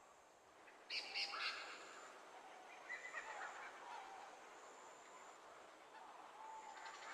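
Rainforest ambience with bird calls: a loud cluster of calls about a second in, then scattered calls over a faint background, with a thin high tone that comes and goes.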